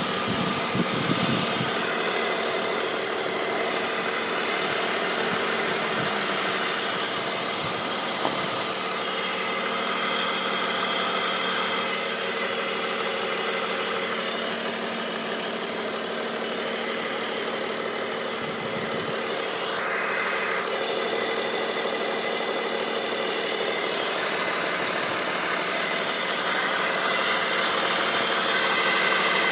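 BMW 530i's 3.0-litre inline-six engine idling steadily, with a hiss over the engine note. The owner suspects the hiss is a leak at the crankcase ventilation (CCV) system or a vacuum line.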